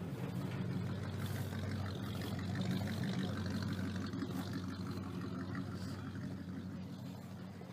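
A car engine running at a low, steady idle, growing louder to about three seconds in and then fading, as if rolling slowly past.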